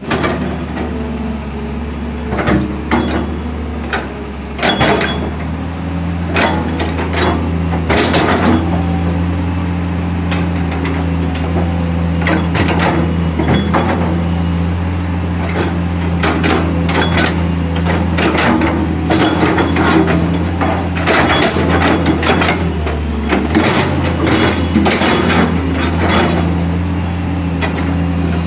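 Komatsu PC200 excavator's diesel engine running steadily, with many sharp knocks scattered throughout, from the machine working.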